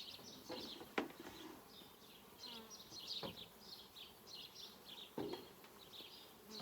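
Honeybees buzzing around a hive, with a sharp wooden knock about a second in and softer knocks later as the hive's lid and wooden parts are fitted back on.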